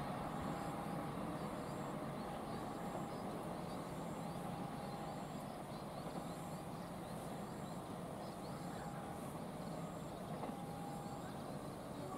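Passenger train rolling away down the track, its steady rumble slowly fading.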